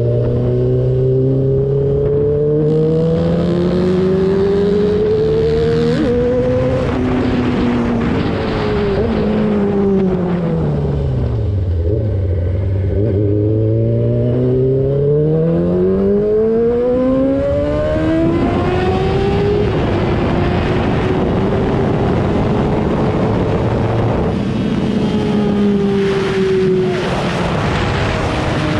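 2003 Yamaha R6's inline-four engine under way. The revs climb with breaks at the gear changes, drop to a low point about twelve seconds in, then climb again and hold fairly steady, over wind noise.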